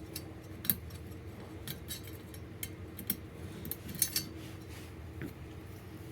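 Light metallic clicks and clinks as small hand tools and the aluminium parts of a wood stove fan are handled, a few separate clicks spread over several seconds with a low steady hum underneath.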